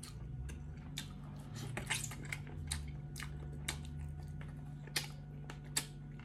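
Close-miked wet chewing and lip-smacking while eating boiled beef by hand, with sharp mouth clicks at irregular intervals. A steady low hum sits underneath.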